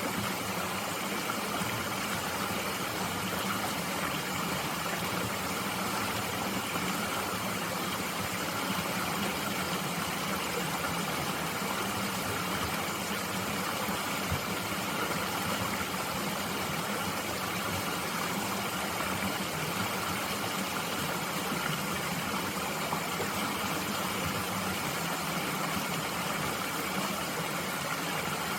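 Mountain stream flowing steadily, an even rushing hiss of water with no breaks.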